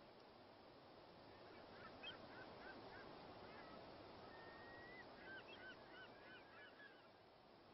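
Near silence with faint, quick chirping calls in two runs and one short held whistle between them.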